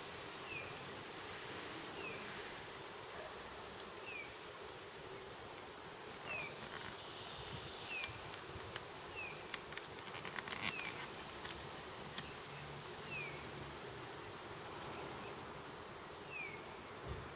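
Outdoor garden ambience: a bird repeats a short, falling call note every one to two seconds over a faint steady buzz, with a brief flurry of soft clicks about two-thirds of the way through.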